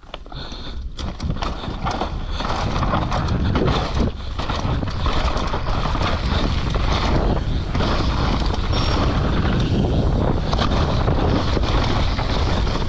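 Mountain bike ridden fast downhill on a dirt trail: wind buffeting the microphone, tyres on dirt, and many quick clicks and rattles from the bike over rough ground. It builds over the first couple of seconds and then holds steady.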